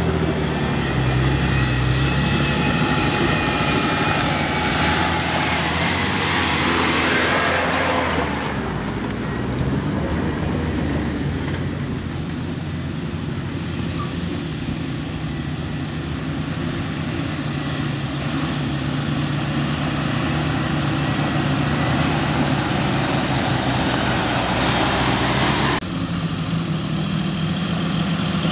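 Jeep Wrangler engines running low and steady as the 4x4s crawl down a dirt track toward the listener. The sound changes abruptly about eight seconds in and again near the end.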